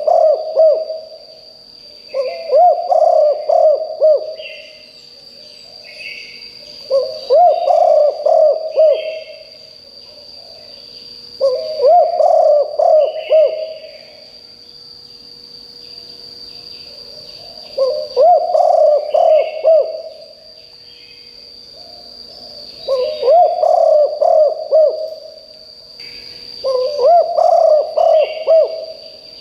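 Spotted dove cooing: a phrase of low, rolling coos about two seconds long, repeated every four to five seconds, seven times. A steady high-pitched whine runs underneath, with faint chirps of other birds between phrases.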